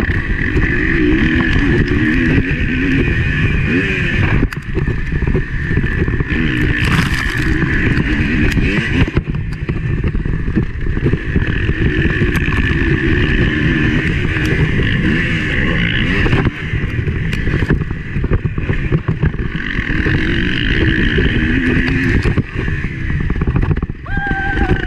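Motocross bike engine revving up and down continuously under race riding, heard through an on-board action camera with wind rush and frequent knocks from the rough ride.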